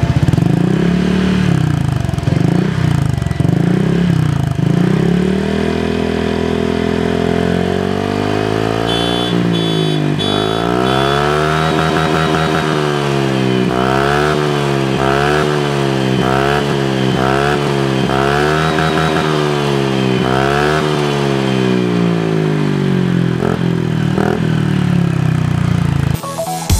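Honda ADV150 scooter's single-cylinder engine running through a Prospeed full-system aftermarket exhaust and being revved. It is fairly steady at first, then from about nine seconds in it is blipped repeatedly, the pitch rising and falling a little under once a second.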